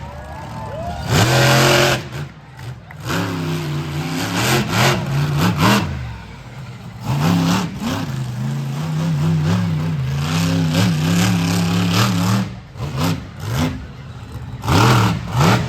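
Monster truck engine running and revving, its pitch rising and falling repeatedly, with loud blasts of noise about a second in and again near the end.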